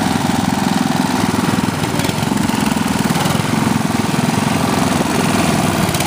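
Ariens lawn tractor's 8 hp Tecumseh single-cylinder engine running steadily.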